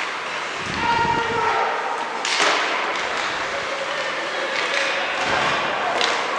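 A loud sharp knock about two and a half seconds in and a smaller one near the end, with duller thuds around the first second, over a steady noisy background.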